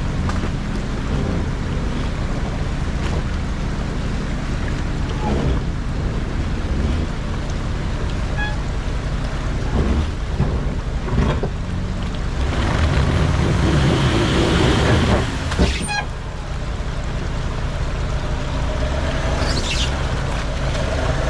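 Range Rover Sport TDV8 diesel V8 running steadily as it crawls off-road, with a louder rush of engine and noise from about twelve seconds in that cuts off sharply a few seconds later.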